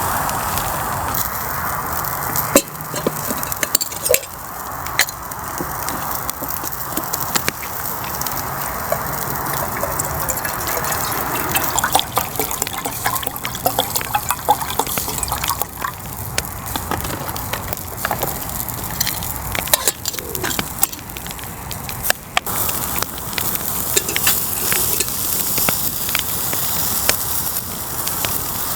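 Wood fire crackling in a fire pit, with irregular sharp pops over a steady hiss.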